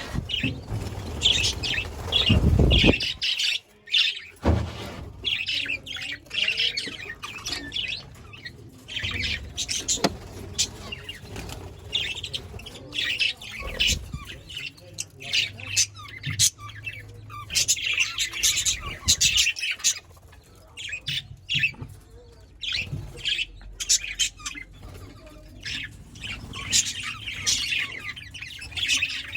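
A colony of budgerigars chirping and chattering, many short high calls overlapping throughout. A low rumble sounds in the first three seconds.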